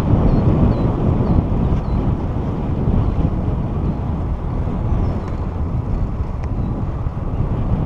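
Wind buffeting the microphone of a camera riding along on a moving bicycle: a loud, unsteady low rumble.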